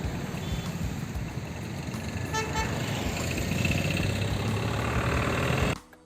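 Road traffic running steadily, with a short vehicle-horn toot about two and a half seconds in; the sound cuts off sharply near the end.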